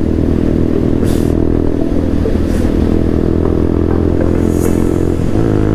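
Kawasaki Z800 motorcycle's engine running steadily under way, heard from the rider's seat, with a change in the engine note about five seconds in.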